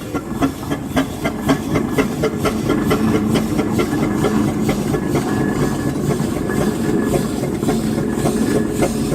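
Steam train running, with a regular beat about twice a second over a steady rumble.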